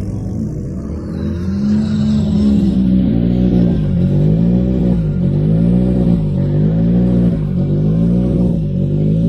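Car engine running loud, its revs rising and falling in a steady rhythm about once a second from about three seconds in.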